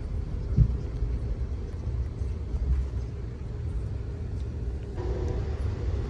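Steady low rumble of a moving passenger train heard from inside the car, with one short thump about half a second in. A faint hum comes in near the end.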